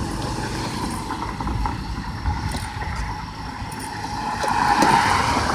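Electric RC trucks' motors and gear drivetrains whining as they strain against each other in a tug-of-war pull, getting louder about four and a half seconds in.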